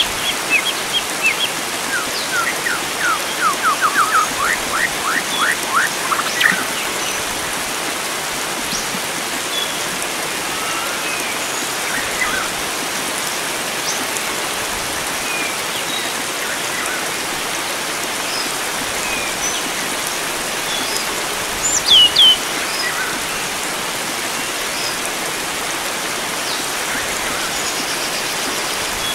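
Steady rush of flowing water with wild birds calling over it: a fast run of about a dozen short notes between two and six seconds in, scattered chirps throughout, and a louder falling double call about three-quarters of the way through.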